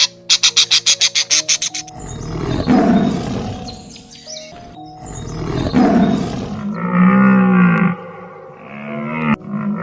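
A string of animal calls over background music: a fast run of rapid chirping pulses, then two rough, noisy calls that swell and fade, then drawn-out pitched calls near the end.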